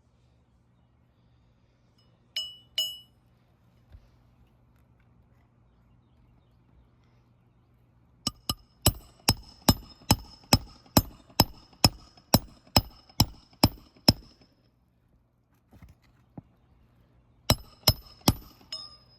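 Hammer striking metal with a sharp, ringing clink, as in roofing nails being driven during a shingle repair: two blows, then a steady run of about eighteen at roughly three a second, and three more near the end.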